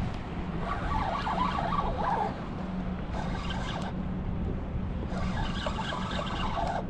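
Boat motor droning steadily, with a constant low hum, over wind and water noise.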